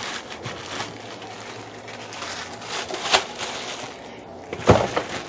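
Handling noises as a stalk of celery is pulled from the bunch: rustling, a sharp crack about three seconds in, and a louder knock near the end.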